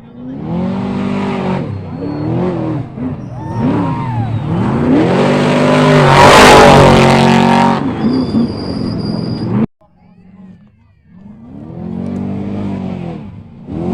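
Trophy truck V8 racing engines revving up and down as the trucks race past, their pitch rising and falling with the throttle. The loudest, closest pass comes about six seconds in, with a rush of noise on top of the engine. The sound cuts off abruptly a few seconds later, and another truck's engine then builds up.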